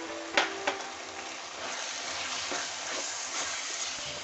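Potato, tomato and onion masala sizzling in a kadhai as a wooden spatula stirs it, with two sharp knocks of the spatula against the pan just under a second in.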